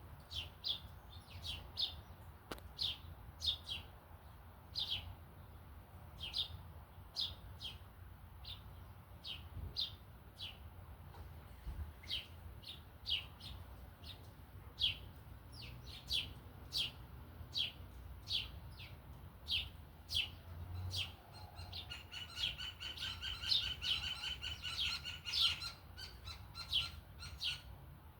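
Small birds chirping: short, sharp chirps repeated irregularly, one or two a second, with a stretch of faster, buzzier twittering for several seconds near the end.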